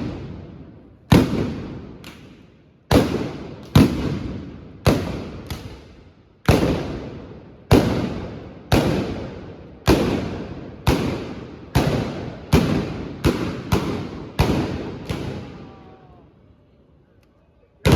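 Trabucs, Catalan blunderbusses loaded with blank black-powder charges, firing in a rapid, uneven volley of about eighteen loud blasts, roughly one a second. Each shot trails off in a long echo, and the firing pauses for a couple of seconds near the end.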